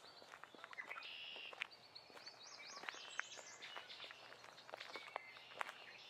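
Birds singing in woodland, with a quick run of up-and-down chirping notes in the middle, over faint crackling footsteps on the forest floor.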